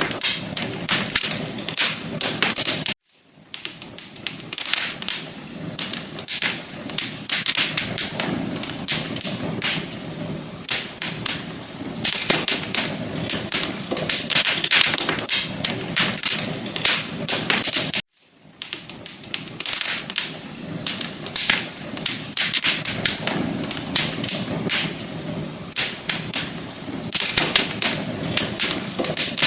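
Wood fire crackling in a fireplace: dense, irregular pops and snaps over a low rumble of burning. The sound cuts out briefly twice, about 3 seconds and 18 seconds in.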